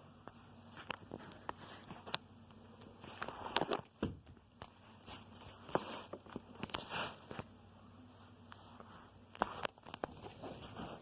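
Scattered clicks, taps and crackling rustles from handling things by hand, with a few louder bursts; no vacuum motor is running.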